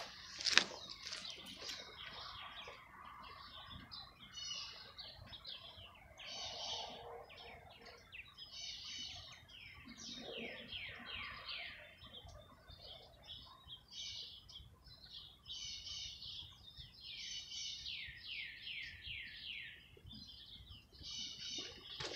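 Songbirds chirping and singing, with repeated bursts of high chirps and runs of quick falling notes. A single sharp click sounds about half a second in.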